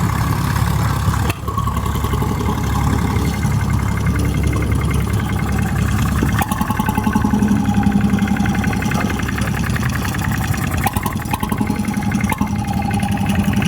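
Vintage stationary engines running steadily with a fast, even beat. The sound changes abruptly twice, once just over a second in and again about halfway through.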